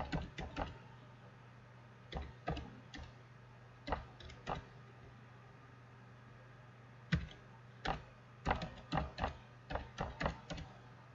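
Keystrokes on a computer keyboard in short irregular bursts with pauses, as a login email address is typed in, over a faint steady low hum.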